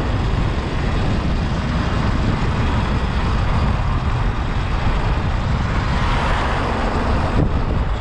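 Wind buffeting the microphone on a moving Sur-Ron X electric dirt bike ridden into a headwind: a steady, deep noise with no engine note.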